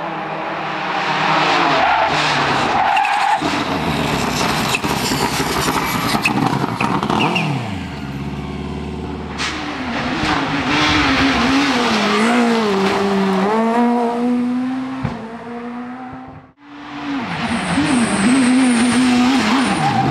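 Rally cars driven hard at speed: engine revving up and down through gear changes, with a noisy rushing passage in the first half as a car goes by. The sound cuts off abruptly about three-quarters of the way through and another rally car's engine comes in at high revs.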